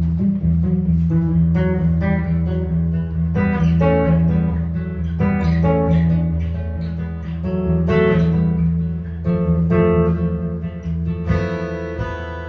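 Improvised jazz guitar: plucked single notes and chords over a held low bass tone.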